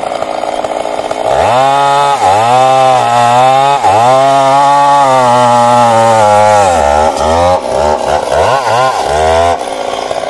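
Stihl MS 382 two-stroke chainsaw cutting wood at full throttle. Its engine pitch sags and recovers several times as the chain loads up in the cut. It is quieter and lower for the first second and again in the last few seconds.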